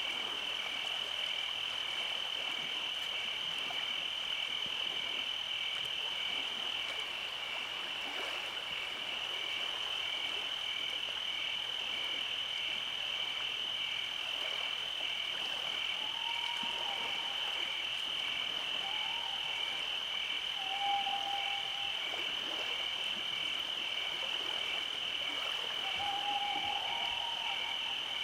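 Night insect chorus: a steady high trill with an evenly pulsing chirp beneath it, typical of crickets. About halfway in, a few short mid-pitched calls join it, slightly rising.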